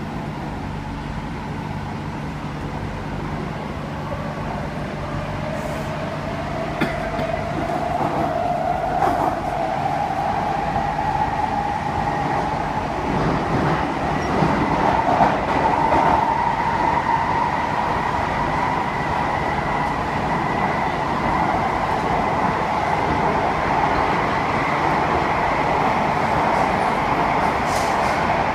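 SMRT C151A metro train heard from inside the carriage as it accelerates through the tunnel: the traction motors give a whine that rises in pitch over the first half, then holds steady, over a constant rumble of wheels on rail with a few clicks.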